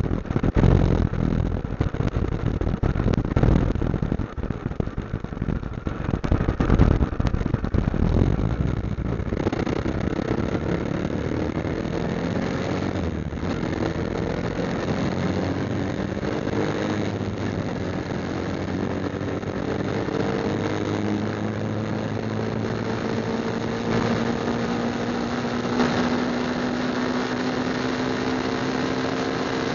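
Motorcycle engine running on the move, with wind buffeting the microphone for the first nine seconds or so. After that the engine hum is steady and its pitch climbs slowly as it picks up speed.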